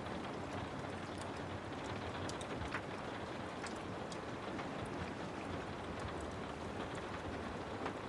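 Steady rain with a wood fire crackling, its sharp pops scattered irregularly over the rain's even hiss.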